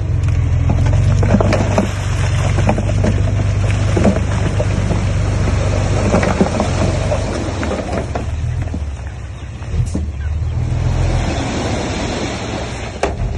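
Bulldozer's diesel engine running steadily under load, with many irregular knocks and clatters of stones and steel tracks as it pushes rock fill.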